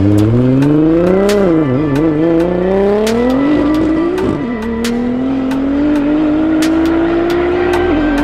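Car engine at full throttle, its pitch climbing through the revs and dropping at upshifts about one and a half and four and a half seconds in, then rising slowly in a higher gear.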